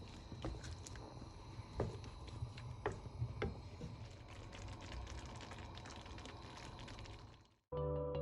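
Butter chicken sauce cooking in a pot: a steady hiss dotted with many small pops and ticks, and a few louder clicks of a spoon against the pot. Near the end the sound cuts off abruptly and calm background music with sustained chimes begins.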